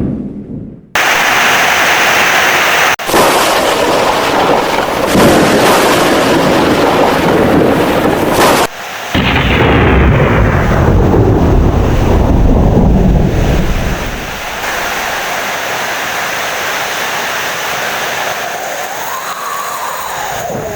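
Heavy rain with rolling thunder. The sound drops away briefly in the first second, then comes back suddenly and cuts abruptly a couple of times, as where recordings are spliced; about two-thirds through the thunder's rumble fades, leaving steady rain.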